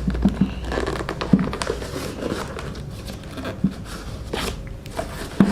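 Packaging being handled and opened by hand: rustling and scraping with scattered clicks and a few short tearing strokes.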